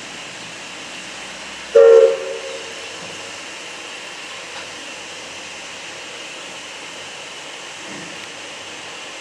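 One short locomotive whistle blast, about half a second long, about two seconds in, over a steady hiss.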